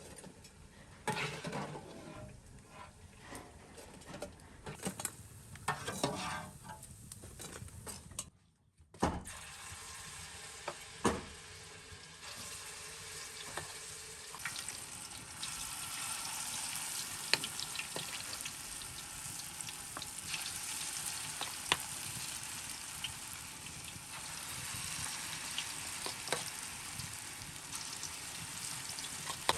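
Food frying in hot oil with a sizzle and scattered crackles. After a short break about eight seconds in, the sizzle settles into a steady hiss with sharp pops.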